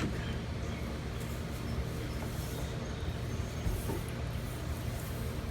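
Steady low mechanical hum with a few faint clicks of small parts being handled.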